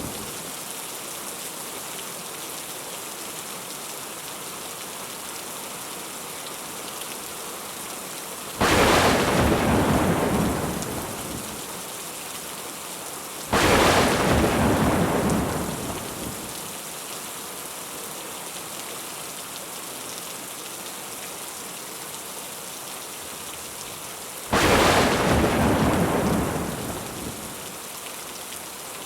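Steady rain with three thunder cracks. Each crack strikes suddenly and rumbles away over two to three seconds: one about nine seconds in, another about five seconds later, and a third near the end.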